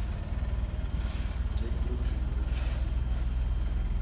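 Exhaust of a petrol Suzuki Grand Vitara 4WD, its engine running steadily with a low, even pulsing from the silencer.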